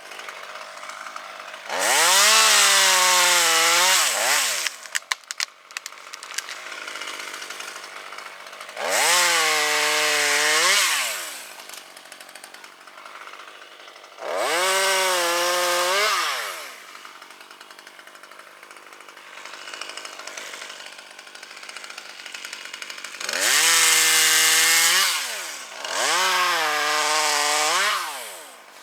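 Chainsaw revving to full throttle in five bursts of about two seconds each, falling back to idle between them, as it cuts wood. A few sharp clicks follow the first burst.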